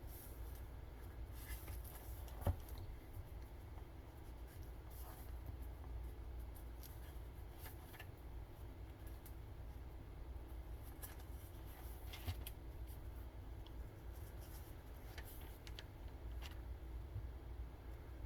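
Faint rustling and light clicks of handling over a low steady room hum, with one sharper knock about two and a half seconds in.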